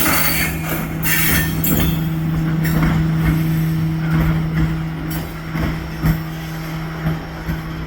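Freight train rolling past over steel rails, with a steady low hum. High-pitched wheel squeal in the first couple of seconds, then a few sharp knocks from the wheels in the second half.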